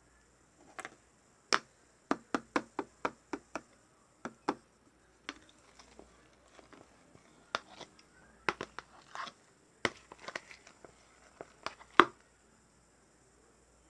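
Marbled slime being squeezed and poked by hand, giving a run of sharp, irregular clicks and pops, with the loudest pop near the end.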